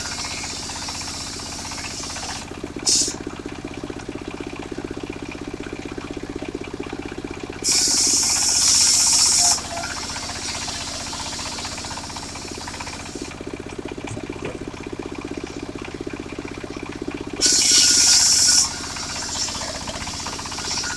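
Mobile wood circular saw running steadily, its blade cutting through timber in loud, high-pitched stretches: a brief one about three seconds in, a two-second cut near the middle, and another shorter cut near the end.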